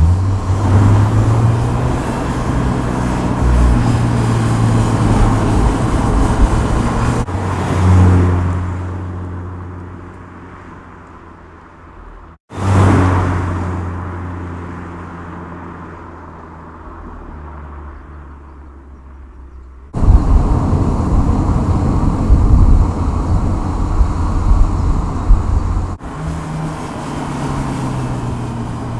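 Volkswagen Scirocco R's turbocharged 2.0-litre four-cylinder engine under way, with engine and tyre noise. Twice the car's engine note swells and then fades as it drives off into the distance. Then comes steady, close engine and road noise, with the revs rising near the end.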